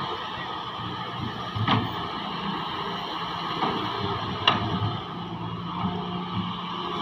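Heavy excavator's diesel engine running steadily under work, with two sharp knocks, one about two seconds in and another about four and a half seconds in.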